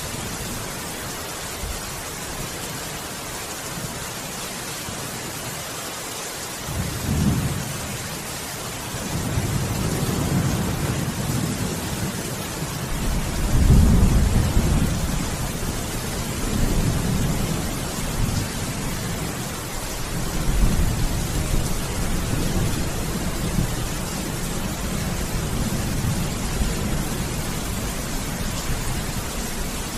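Steady heavy rain hissing, with thunder rolling in about a quarter of the way through, the loudest rumble near the middle and further rolls of thunder after it.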